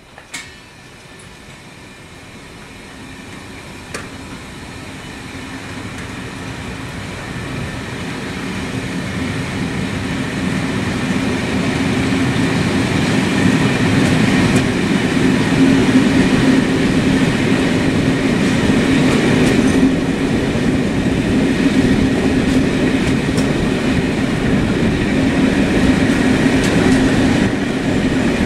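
A steady rumble of a moving vehicle that grows louder over about the first twelve seconds and then holds, with a few clicks right at the start.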